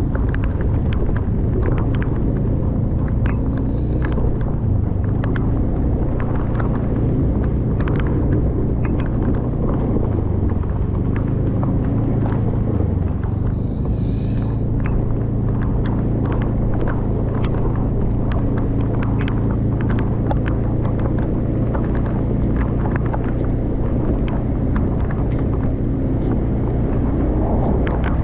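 Rainstorm: a dense, irregular patter of raindrop ticks close to the microphone over a steady low rumble.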